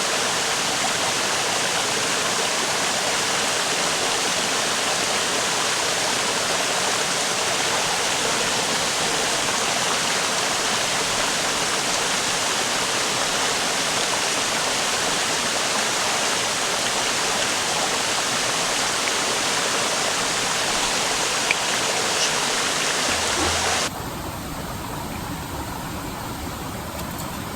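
River water flowing steadily, a constant rushing noise. About 24 seconds in it cuts off abruptly to a quieter, duller background noise.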